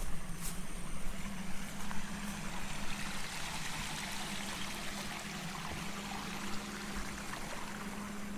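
Water running in a rice-terrace irrigation channel: a steady rushing that swells about two to three seconds in, over a steady low hum.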